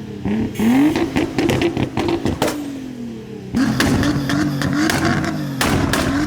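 Modified car engine revved hard in several bursts, its pitch climbing and holding high before dropping, with sharp exhaust pops and bangs between the revs.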